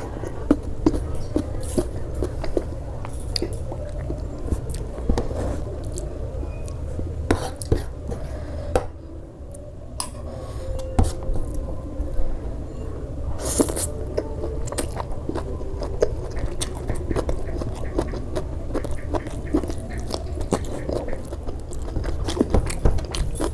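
Close-miked chewing and biting of food, with frequent wet mouth clicks and smacks and a brief quieter pause about nine seconds in.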